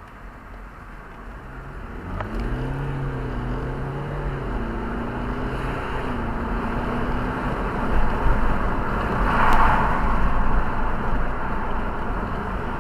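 Car on the move: steady engine and road noise. Engine tone picks up about two seconds in and holds for several seconds, and a louder rush of noise swells near the ten-second mark.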